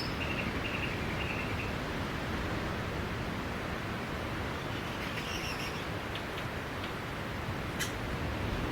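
Sea surf washing steadily on a beach, an even rushing noise. Faint high bird calls come through just after the start and again about five seconds in, and there is a short tick near the end.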